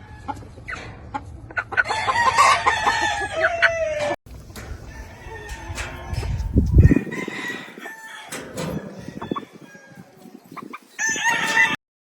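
Gamefowl roosters crowing and clucking: one long crow drops in pitch at its tail about two to four seconds in, and another short crow comes near the end.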